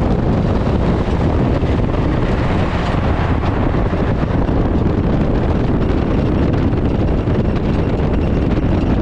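Ford Crown Victoria dirt-track race car's V8 running at speed, heard from inside the stripped, caged cabin. It comes through as a loud, steady rumble mixed with wind rush on the microphone.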